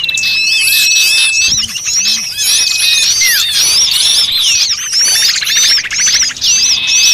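A dense chorus of many small birds calling at once, a bird-lure recording of excited birds meant to draw other small birds in. Quick overlapping chirps mix with long steady whistles, falling slurs and, about halfway, a rapid buzzy trill.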